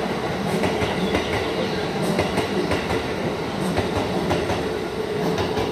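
Keikyu New 1000 series electric commuter train rolling past, its wheels clacking over the rail joints in an irregular run of clicks over a steady rumble.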